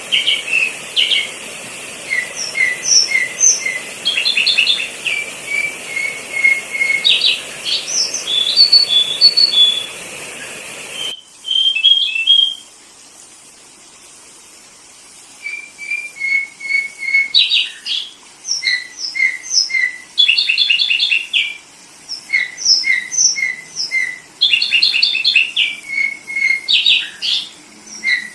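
Sooty-headed bulbul (kutilang) calls used as a lure, repeated short bright chirping phrases. About eleven seconds in the background hiss cuts off abruptly, and the calls pause for a couple of seconds before resuming.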